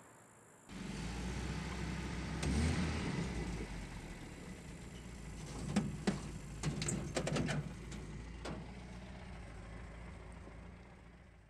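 Car engine running steadily. It comes in suddenly about a second in, has several sharp clicks and knocks in the middle, and fades away at the end.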